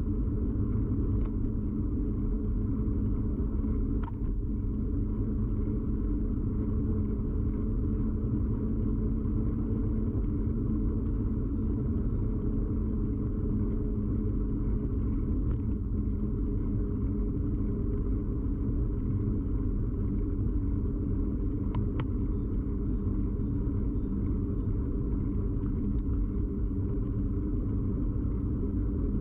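Steady low rumble of riding a bicycle, with tyre and frame vibration carried straight into a camera fixed to the bike. Two faint clicks come through, one about four seconds in and one near twenty-two seconds.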